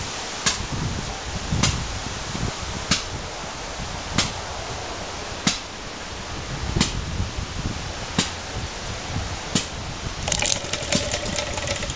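Rebuilt Suffolk small engine being rope-started and trying to fire without catching: sharp single pops about every second and a quarter. About ten seconds in comes a short burst of quicker firing.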